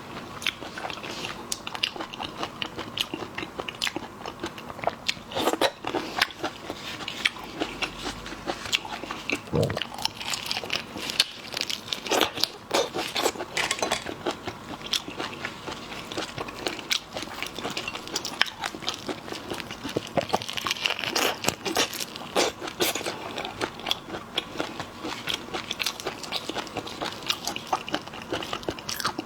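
Shrimp being eaten: steady crunching and chewing, with many sharp cracks of shell, irregular throughout.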